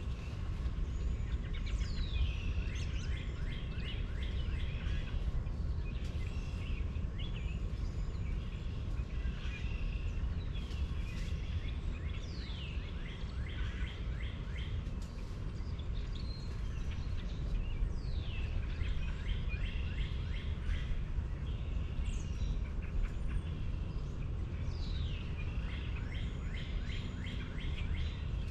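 Wild birds calling and chirping, with repeated short calls that sweep downward in pitch, over a steady low rumble.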